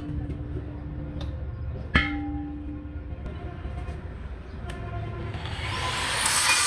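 Metal struck hard about two seconds in, ringing on with a clear tone for about a second, then a lighter tap near five seconds. A rising hiss builds over the last second and a half.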